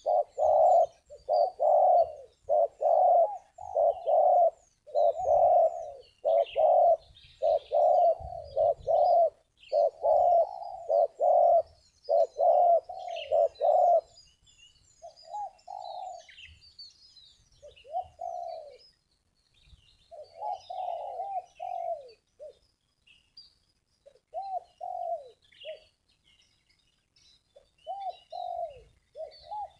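Spotted doves cooing: a fast, loud run of repeated coos for about the first half, then quieter coo phrases with gaps between them. Small birds chirp faintly and high-pitched in the background.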